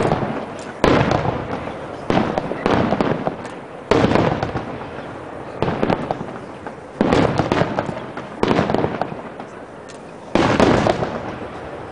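Fireworks going off in a rapid series: about a dozen loud bangs roughly a second apart, each fading away before the next.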